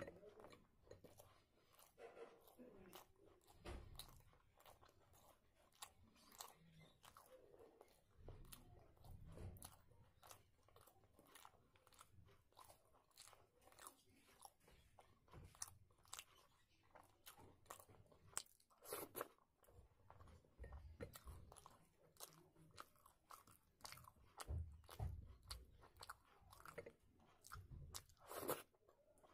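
Quiet, close-miked mouth sounds of someone eating chickpea curry by hand: soft wet chewing with many short lip smacks and clicks at irregular times.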